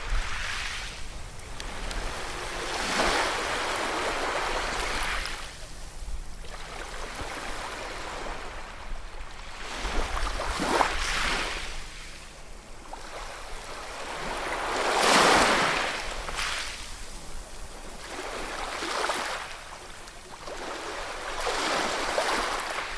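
Ocean waves breaking and washing on the shore, the surf swelling and falling every few seconds, loudest about fifteen seconds in.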